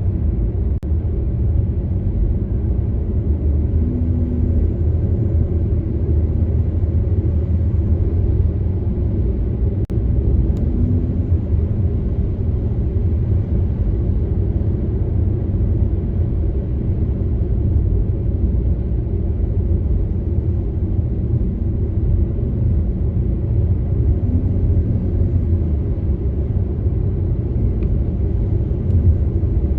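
A car driving steadily, with a constant low rumble of road and engine noise.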